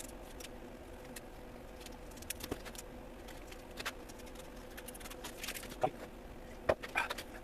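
Scattered small clicks, taps and rustles of hands handling parts and materials at a workbench, over a steady faint hum; the handling is busiest near the end.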